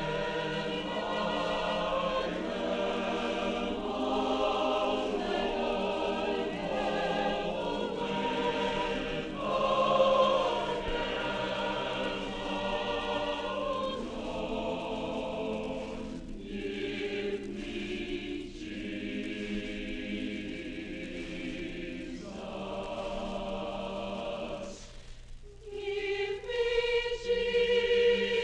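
Choir singing in several parts with long held chords. Near the end the sound drops away briefly, then the choir comes back in louder.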